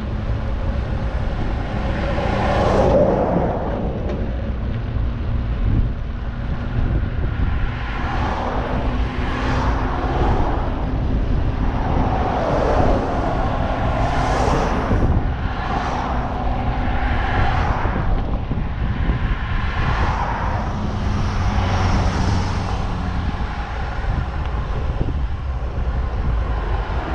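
Wind rushing over the camera microphone while cycling along a road, a steady low rumble with rising-and-falling whooshes every second or two.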